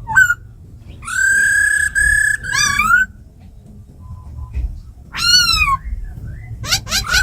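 Laughingthrush singing: clear whistled song with a long, held whistle and short rising slurred notes, a pause, a quick run of falling notes, then another long held whistle starting near the end.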